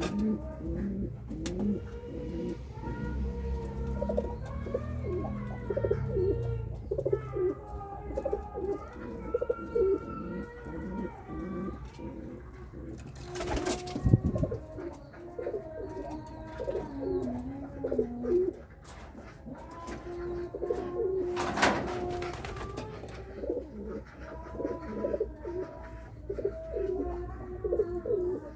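Domestic pigeons cooing, repeated low calls one after another, with a couple of sharp knocks or scrapes partway through.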